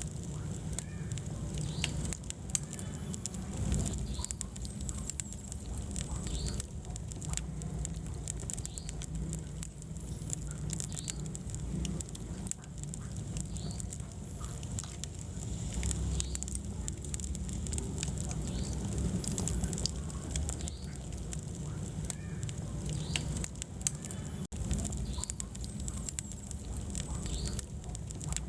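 Wood fire burning in a fireplace: a steady low rumble of the flames with frequent, irregular sharp crackles and pops from the burning wood.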